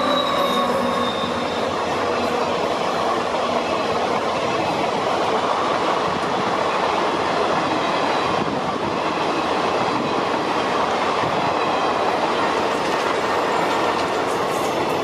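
Express passenger coaches passing close at speed: a steady, loud rushing rumble of steel wheels on rails. The diesel locomotive's engine tones fade out during the first second.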